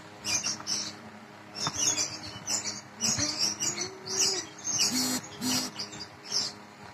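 Small birds chirping in quick, short, high-pitched calls that repeat over and over.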